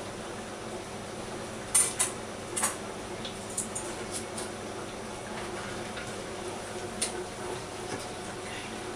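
Dripping tap: water drops landing at uneven intervals, the loudest three about two seconds in and fainter ones after, over a steady low hum.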